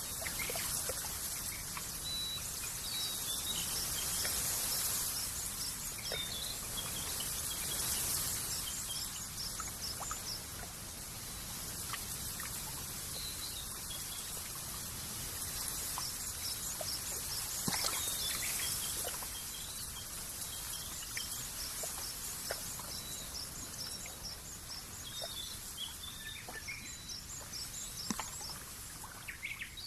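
Nature ambience: a steady soft hiss with many small birds chirping, short high chirps repeating in clusters throughout, and a few faint clicks.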